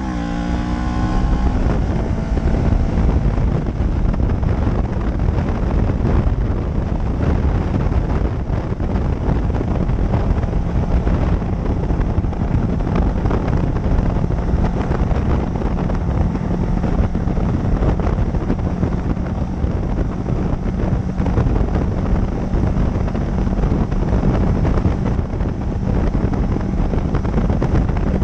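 Motorcycle engine running under way with heavy wind noise on the microphone. The engine note drops in pitch in the first couple of seconds, then holds steady.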